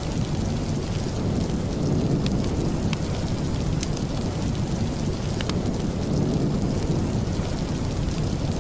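Steady rain, heaviest in the low range, with a few scattered sharp ticks.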